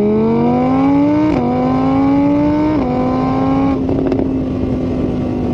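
Car engine accelerating through the gears. The pitch climbs, dips at an upshift about a second and a half in and again near three seconds, then holds steady.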